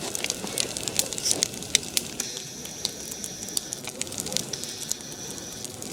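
Large wood bonfire crackling, with many irregular sharp pops over a steady hiss.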